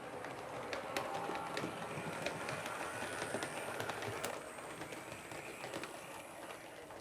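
HO-gauge model of an 8620 steam locomotive and its train running along the track, with irregular sharp clicks as the wheels pass over rail joints.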